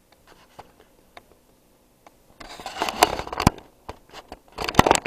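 Handling noise on the recording device: a few faint clicks, then two bouts of rubbing and scraping with sharp knocks, about two and a half seconds in and again near the end.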